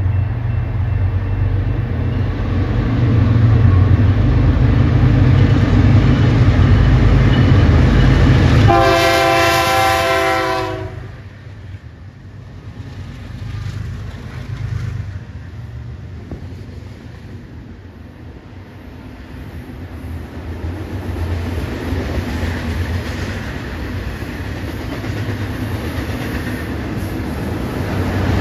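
BNSF freight train's diesel-electric locomotives rumbling past, with one horn blast of about two seconds about nine seconds in. After the locomotives pass, the double-stack container cars roll by with quieter, steady wheel-on-rail noise that grows louder again near the end.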